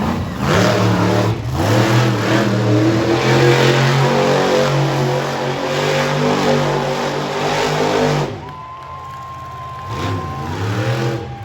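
Monster truck engine revving hard, its pitch rising and falling with the throttle, for about eight seconds. It then drops away suddenly, a steady higher tone sounds briefly, and a few shorter revs follow near the end.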